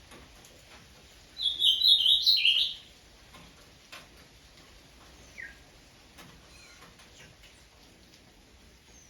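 A bird sings one loud, rapid phrase of high notes lasting about a second and a half. A faint single short call follows a few seconds later.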